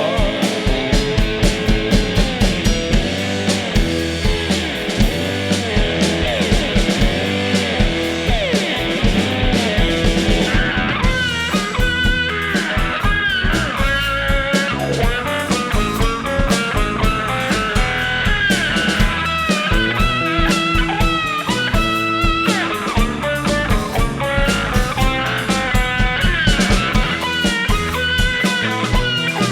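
Live rock band playing an instrumental break: a lead guitar playing a melody with bent notes over bass and drum kit keeping a steady beat.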